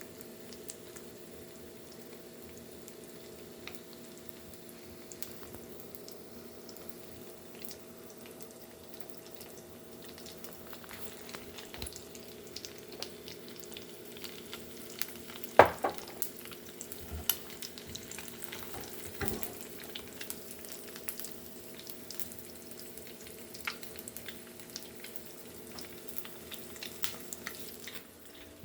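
Eggs frying in a pan, sizzling and crackling, with the crackle growing busier partway through. Spatula stirring sounds, a sharp loud knock about halfway through, and a steady low hum underneath.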